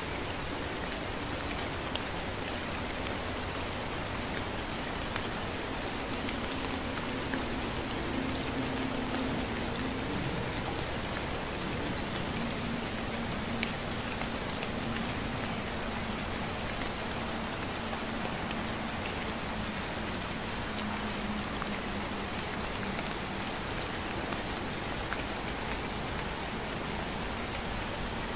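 Light, steady rain falling, with close drops ticking now and then. A faint low hum comes in about six seconds in and fades out a few seconds before the end.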